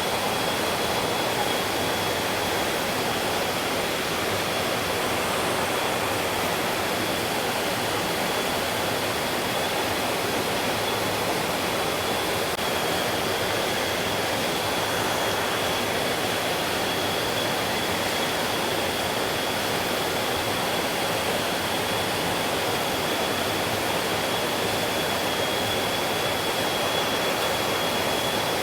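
Flowing stream water rushing steadily, with a thin, steady high tone running above it.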